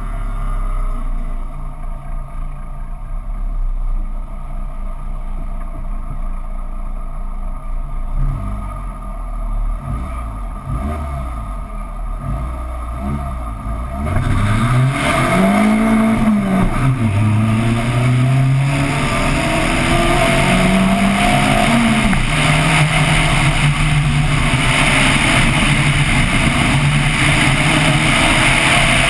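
Peugeot rally car engine held at the start line with repeated throttle blips, then launching at full throttle about halfway through. It accelerates hard, the engine note climbing and dropping back with each upshift, heard from onboard the car.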